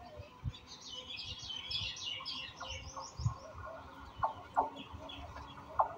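Birds chirping and twittering in a quick cluster of high notes, then short, sharp calls repeated every half-second or so from about four seconds in.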